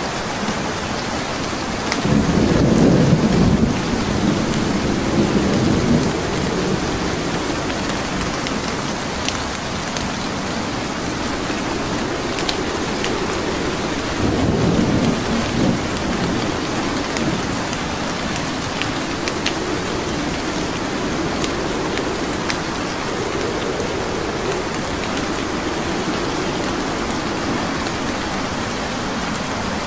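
Steady rain with a wood fire crackling in a fireplace, sharp scattered pops over the hiss. Thunder rumbles twice, the louder roll about two seconds in and a shorter one about halfway through.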